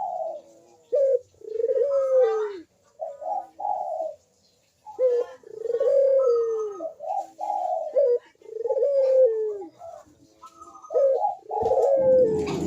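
Burung puter (Barbary dove) cooing in its full song, phrase after phrase, each coo rolling and falling in pitch at its end. A short low rumble sounds near the end.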